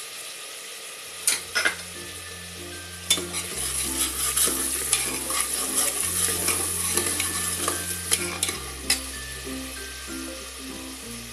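Bay leaves and whole spices sizzling in hot oil in an aluminium pressure cooker, with a steel ladle stirring and scraping through them and clinking sharply against the pot a few times.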